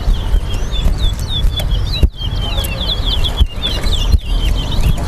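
Towa-towa (chestnut-bellied seed finch) singing in a competition cage: rapid runs of short, high chirping notes, repeated over and over. Wind rumbles on the microphone underneath.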